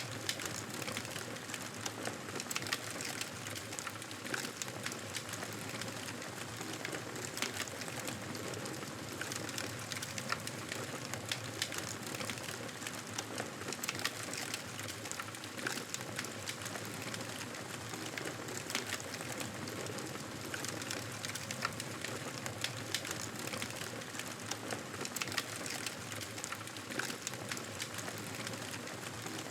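Wood fire crackling, with frequent irregular sharp pops over a steady hiss.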